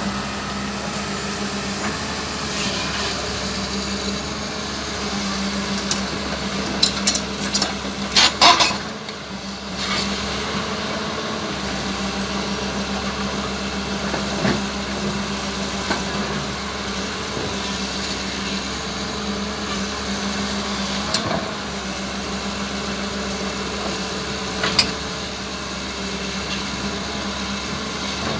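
Hyundai Robex 220LC-9S excavator's diesel engine running steadily, with a quick cluster of sharp metallic clanks about a third of the way in and single knocks later on.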